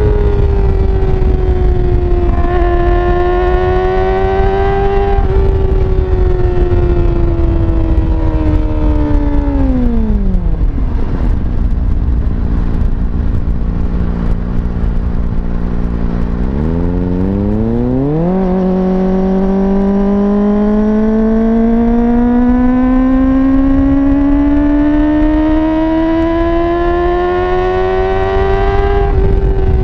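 Kawasaki ZX-25R's 250 cc inline-four running loud and high-pitched through an Akrapovič slip-on exhaust with no dB killer. The revs fall away steeply about ten seconds in and hold a lower note for several seconds. Then they climb quickly and keep rising slowly, dropping sharply near the end.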